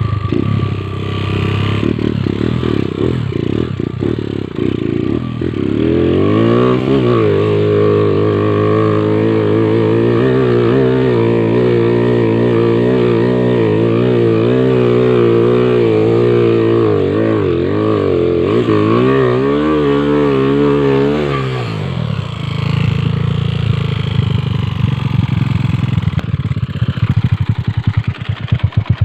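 Motorcycle engine revving hard on a steep uphill climb. It rises about six seconds in and holds high with a wavering pitch for some fifteen seconds, then drops back to a lower speed. The bike is failing to make it up the slope.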